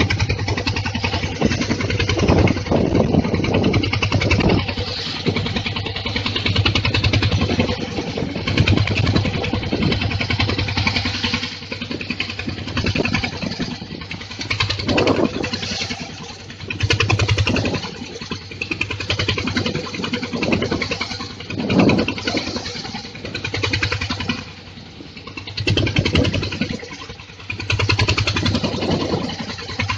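A boat's engine running with a steady low hum, under a loud rushing of wind and water from big waves that swells and fades every few seconds.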